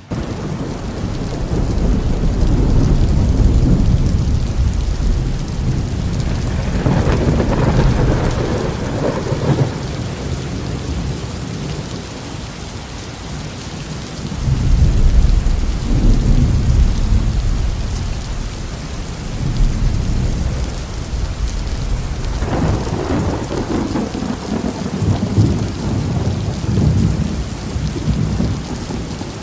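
Thunderstorm: steady heavy rain with deep rolls of thunder that swell and fade several times, the strongest a few seconds in, about halfway, and again in the last third.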